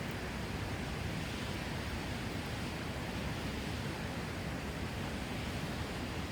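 Steady outdoor rushing noise, heaviest in the low end, with no distinct clicks, steps or calls.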